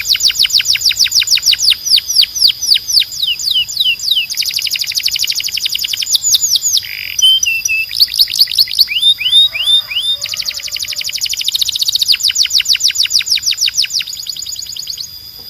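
Male canary singing: rapid rolls of repeated downward-sweeping whistled notes, several tours at different speeds with brief changes between them.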